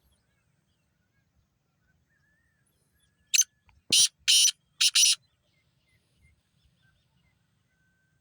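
Black francolin (kala teetar) calling: one harsh, grating phrase of about five loud notes in quick succession, near the middle.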